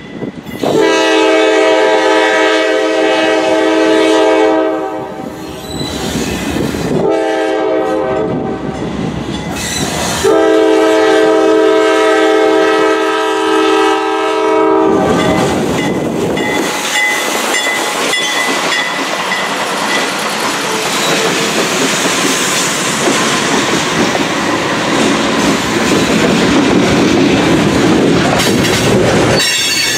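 Freight locomotive's multi-chime air horn sounding for the road crossing: a long blast, a short one and another long one. Then the diesel locomotives pass close by and a string of loaded tank cars rolls through, wheels clacking over the rail joints with some wheel squeal.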